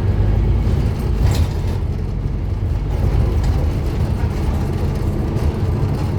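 Scania N230UD Omnicity double-decker bus's five-cylinder diesel engine running steadily, with a short click about a second in.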